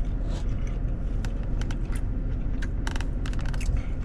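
Steady low rumble of a car, heard from inside the cabin, with a few short clicks scattered through it.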